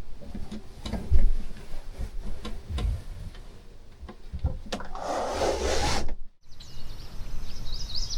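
Thumps and handling noises of someone moving about inside a travel trailer, with a rustling scrape lasting about a second some five seconds in. After a brief drop-out, birds start chirping near the end.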